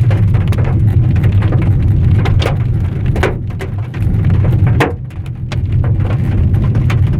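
Large hailstones pelting a moving car's roof and windshield, heard from inside the cabin: a dense, irregular patter of sharp knocks over the steady low rumble of the car.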